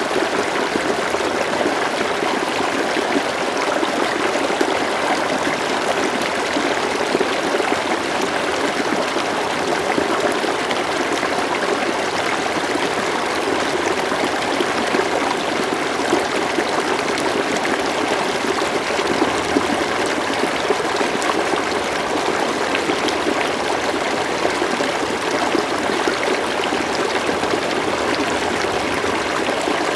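River water flowing steadily, a continuous even rush with light trickling and no breaks.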